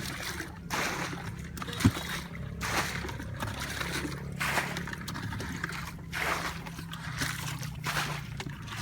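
Shallow water sloshing and splashing in irregular bursts, with one sharp knock about two seconds in.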